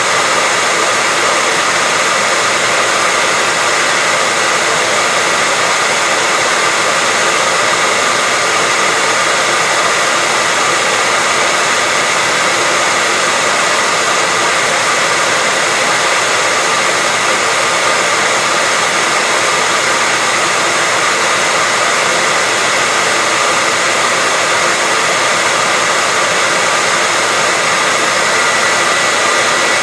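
Hair dryer running steadily: a continuous airy rush from the blower with a faint high whine from its motor.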